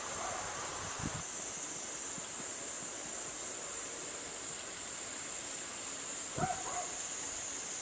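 A dog gives one short whine about six and a half seconds in, over a steady high-pitched insect buzz. A soft knock comes about a second in.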